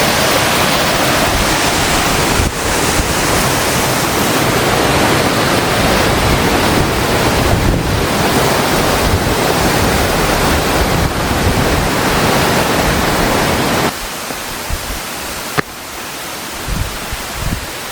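Rushing water of a mountain stream, a loud steady roar that drops suddenly to a softer level about fourteen seconds in.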